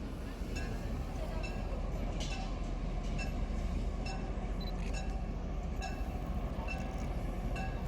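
Train running on the track: a steady low rumble with light clicks and clanks repeating about once or twice a second.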